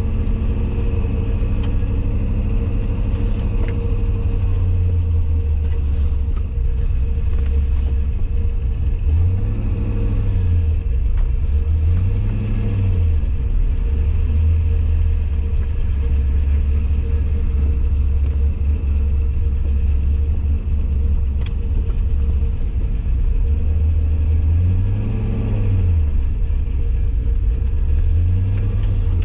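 Turbocharged LS V8 (LC9 aluminium-block 5.3) in a 1989 Corvette running warm at a steady idle, with the revs briefly rising and falling four times.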